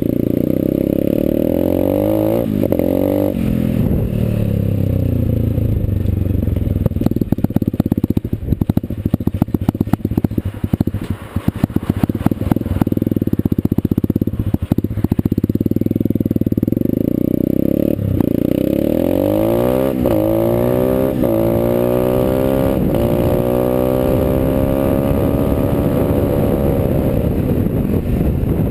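Dirt Runner pit bike's small single-cylinder engine running and being revved and ridden, with its pitch climbing several times as it accelerates. Through the middle there is a patch of rapid clattering.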